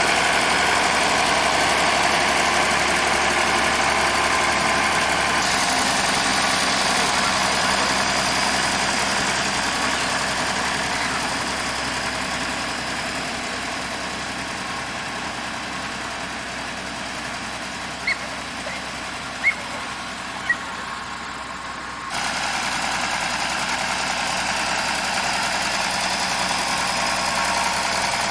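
An engine running steadily, with the sound changing abruptly twice and a few brief high chirps about two-thirds of the way in.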